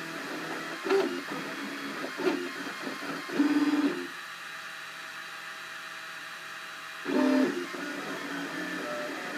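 Cubify 3D printer at work: its stepper motors buzz in short pitched moves. A louder burst comes about three and a half seconds in, then a quieter steady hum for about three seconds, and another louder burst about seven seconds in.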